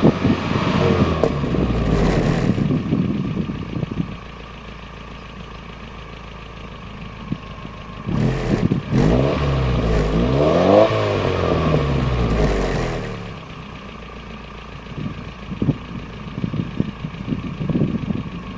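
Nissan E15 1.5-litre carburetted four-cylinder engine settling from a higher speed to idle, then revved once: the pitch climbs to a peak about 11 seconds in and falls back to idle about two seconds later. It runs unevenly near the end.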